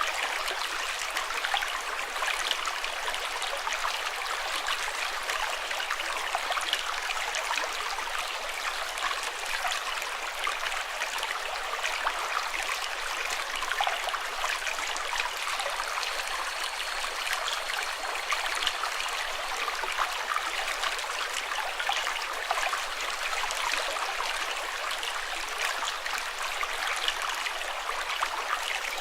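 Running water, like a small stream: a steady rush with fine trickling and splashing, with no deep rumble.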